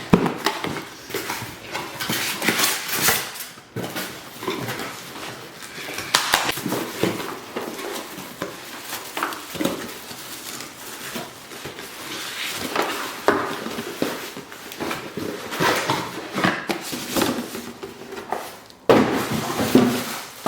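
Irregular clattering, knocking and rustling of a small plastic mini fridge and its packaging being handled, with a louder burst of knocks near the end.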